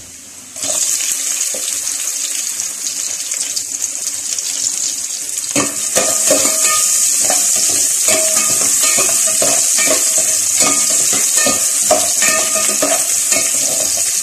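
Sliced red onion hits hot butter and olive oil with garlic in a metal pot: a loud sizzle starts suddenly about half a second in and keeps going. From about five seconds in, a spoon clicks and scrapes against the pot as the onion is stirred.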